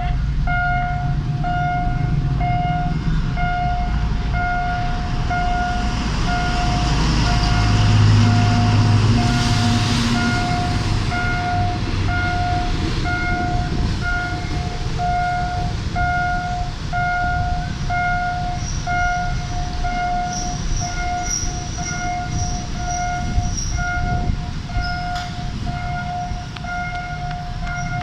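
Level crossing warning bell ringing in a steady, evenly repeating ding, about one and a half strikes a second, while a train passes with a continuous low rumble that swells loudest about eight to ten seconds in.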